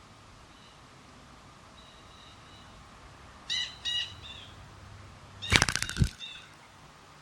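Small wild songbirds calling in winter: a few faint high whistled notes, then two short harsh call notes about three and a half seconds in. About five and a half seconds in comes the loudest sound, a brief fluttering burst close by, followed by one more call.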